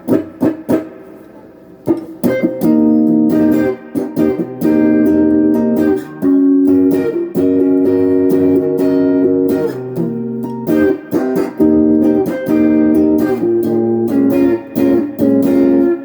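Electric guitar on its neck pickup, played through a Crate GX15R amp with a Golden Plexi overdrive pedal switched on and the guitar's volume and tone on full. A few picked notes open, then strummed overdriven chords that ring for a second or two at a time and are re-struck again and again.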